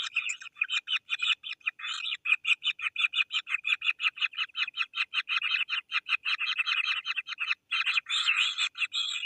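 Hungry kingfisher nestlings giving rapid, repeated begging calls, about seven a second. Several chicks call over one another near the start and again about eight seconds in.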